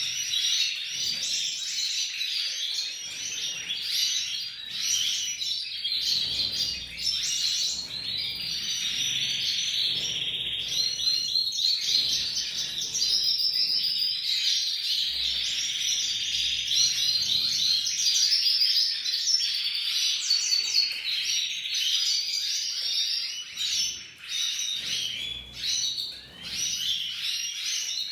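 Canary singing a long, continuous song of rapid high-pitched trills and chirps.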